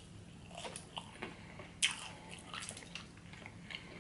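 Chewing and crunching a fried butterfly shrimp in a light, crispy, tempura-like batter: soft scattered crunches and mouth sounds, with one sharper crunch a little under two seconds in.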